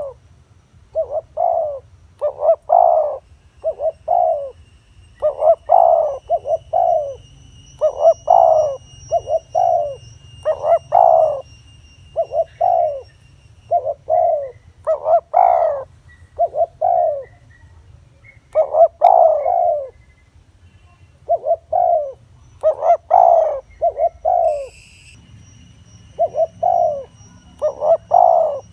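Spotted dove cooing over and over, in short phrases of two or three low coos with brief pauses between them. This is the call used to lure wild doves.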